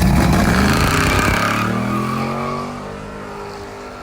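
A car engine revving hard, then accelerating away: its pitch rises steadily while the sound fades over the last two and a half seconds.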